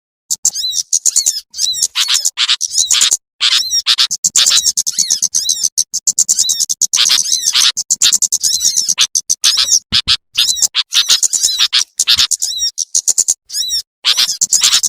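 Bird-lure recording of small birds such as sunbirds: a dense stream of rapid, high-pitched chirps and twitters in quick runs broken by brief gaps.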